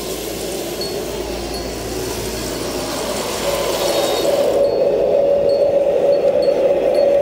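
RC tank's electric drive motor and gearbox whining steadily, rising in pitch and getting louder about three and a half seconds in. A hiss stops suddenly about a second later, leaving the whine and light repeated ticking.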